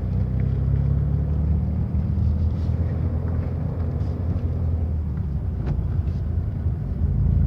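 Car driving along, heard from inside the cabin: a steady low engine and road hum.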